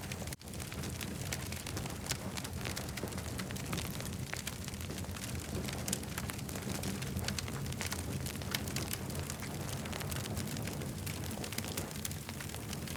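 Campfire crackling: many sharp pops and snaps over a steady low rumble of the burning fire.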